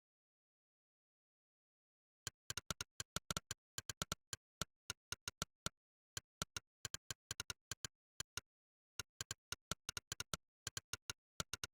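Monkeytype's built-in 'click' typing sound: one short sharp click per keystroke, in quick irregular runs of typing with brief pauses. The clicks start about two seconds in.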